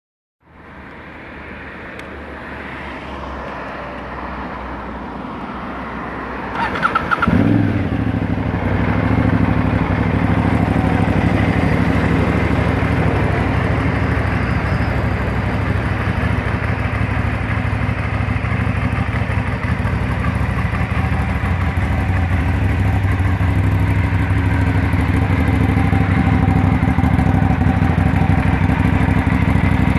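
2009 Aprilia Dorsoduro 750's 90-degree V-twin cranked by the starter and catching about seven seconds in, then idling steadily.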